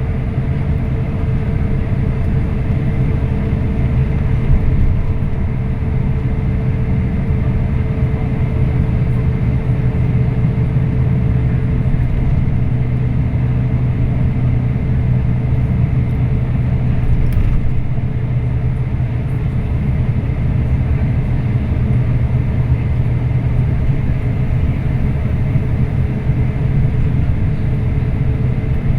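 Scania K340IB bus under way, heard on board: a steady low engine and road drone, with a faint higher tone that fades out partway through.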